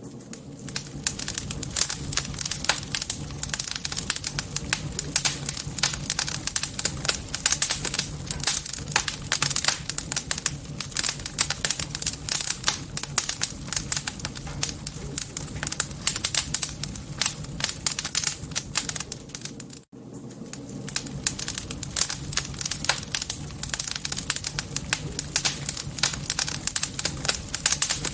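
Campfire crackling and popping continuously, a dense stream of sharp snaps from the burning wood over a low steady rumble. The sound cuts out for an instant about twenty seconds in.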